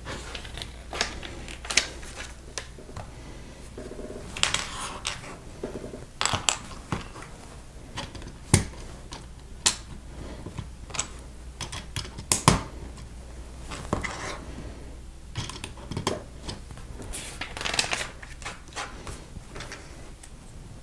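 LEGO bricks being handled and snapped together: irregular sharp plastic clicks, with short rattles of loose pieces being picked from the pile.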